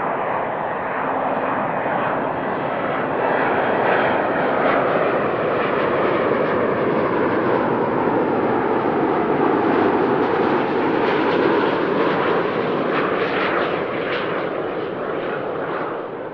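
Jet airliner's engines running as it passes close by, the rushing engine noise building to its loudest about two-thirds of the way through, then easing off and cutting out suddenly at the end.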